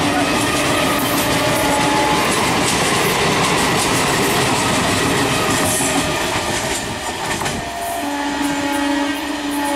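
Indian Railways EMU electric suburban train running past close by, a loud steady rush of wheel and rail noise. About eight seconds in the rumble drops away and a steady train horn sounds.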